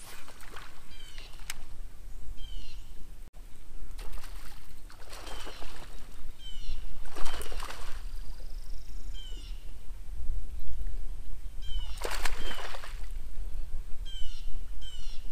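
A bird calling over and over, a short call with a quick falling trill, repeated every second or two, over a low rumble. A few loud rushing bursts of noise break in about four, seven and twelve seconds in.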